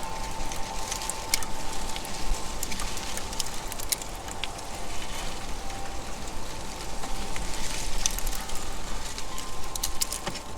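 Squirrels feeding at a platform feeder: scattered sharp clicks and crunches of seeds and nuts being cracked and handled, with a faint steady tone in the background.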